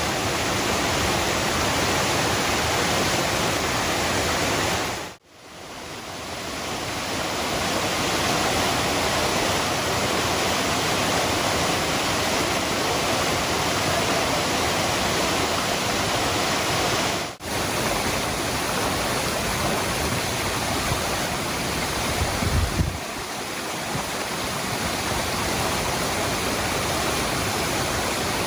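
The Cascada del Hervidero waterfall rushing steadily, a dense, even hiss of falling water. About five seconds in it drops almost to nothing and swells back, and it dips briefly again later; a short low rumble comes just before the sound settles slightly quieter.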